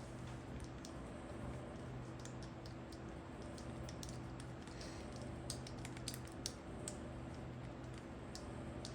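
Faint, scattered light clicks and taps from a replacement extension-cord plug being handled and fitted together, with more of them about five to seven seconds in. A steady low hum runs underneath.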